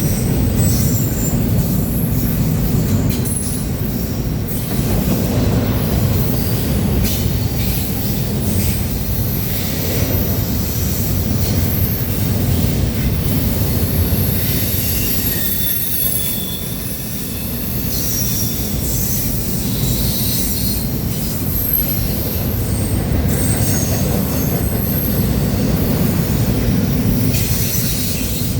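Norfolk Southern freight train rolling past, its cars rumbling steadily, with the wheels squealing in thin high tones and clicking irregularly on the rails.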